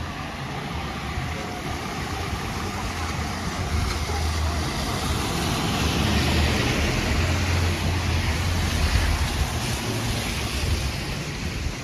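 Rainy city street: a steady hiss of wet traffic and rain that swells to its loudest in the middle, with a low rumble of wind on the microphone.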